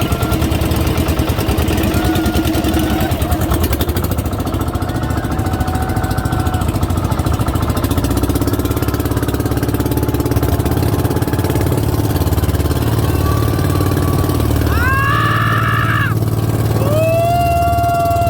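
A boat's engine running steadily and loudly under way.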